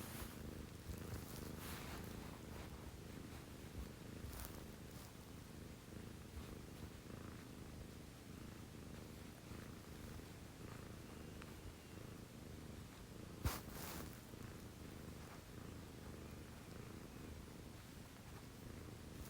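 A domestic cat purring steadily, a low even rumble, with one sharp click about thirteen seconds in.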